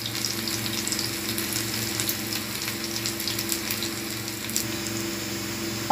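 Batter-coated bitter gourd rings deep-frying in hot oil in a pan: a steady sizzle full of small crackles, over a faint steady low hum.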